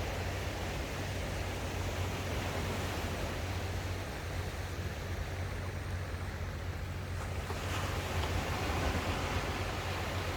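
Ocean waves washing on the shore in a steady rush of surf, with a wave surging louder about three-quarters of the way in.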